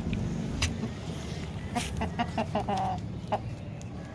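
A hen clucking: a quick run of short clucks starting about two seconds in, the last one drawn out. A few sharp knocks fall around them, over a low rumble that fades in the first second.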